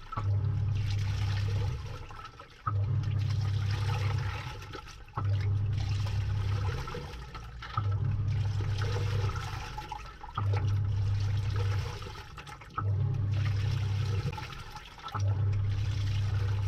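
Samsung 6.5 kg top-load washing machine agitating a load in water, heard from inside the drum. The pulsator motor hums for about two seconds, pauses briefly, then starts again, about every two and a half seconds, with water sloshing throughout.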